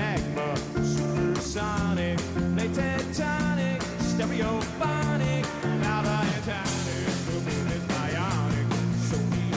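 A rock band playing an instrumental stretch of an up-tempo song. A quick, steady drum beat runs under a bass line and a guitar line with bent notes.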